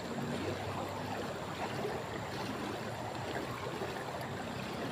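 Steady rushing noise of flowing water, like a stream.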